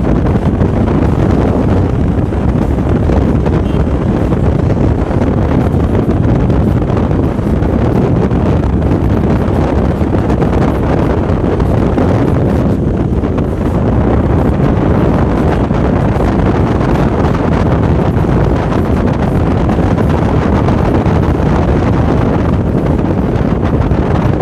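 Steady wind noise buffeting the microphone of a moving motorcycle, a constant low rush.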